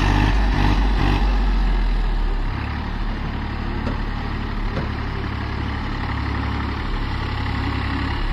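Tractor diesel engine running, louder for the first two seconds or so, then easing down to a steady, lower run.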